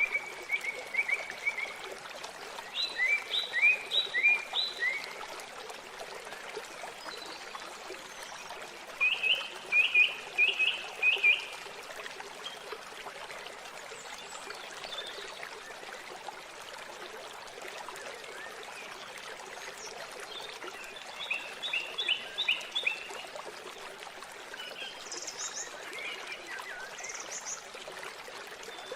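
Steady rush of a waterfall with birdsong over it: several bursts of quick repeated chirping notes a few seconds apart, and a few higher calls near the end.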